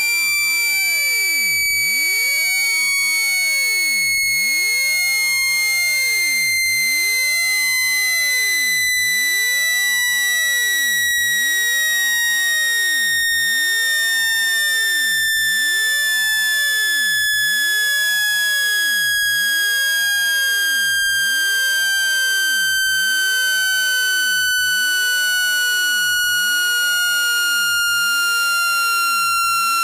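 Electronic speaker-cleaning tone for shaking water out of a phone speaker: one steady, loud pitch gliding slowly and evenly downward, with fainter higher tones above it.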